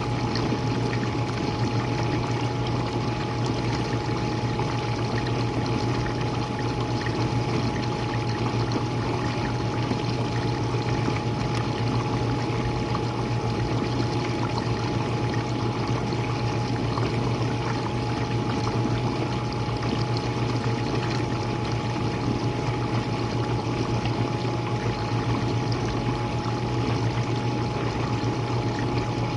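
Jenn-Air dishwasher running: water spraying and splashing inside over a steady pump-motor hum with a thin high whine, unchanging throughout.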